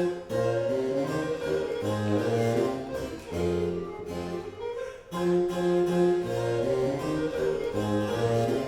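Baroque chamber music played live: harpsichord with held low bass notes and a higher melody line, from a recorder, bassoon and harpsichord trio.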